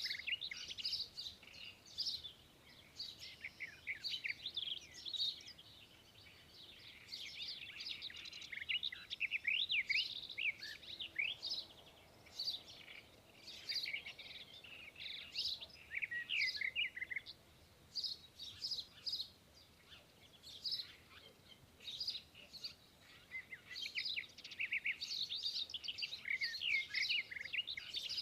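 Several small birds chirping and twittering: a dense stream of short, high chirps and quick up-and-down notes that come in bursts with brief lulls.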